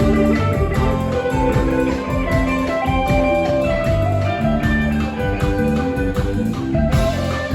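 Live band playing: electric guitar lines over bass and drums keeping a steady beat.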